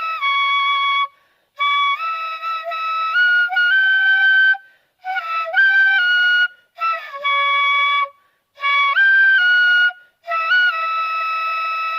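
A melody of thanksgiving played by an amateur on a wind instrument, in short phrases of held notes with brief pauses between them. Some notes are out of tune, some flat and some sharp.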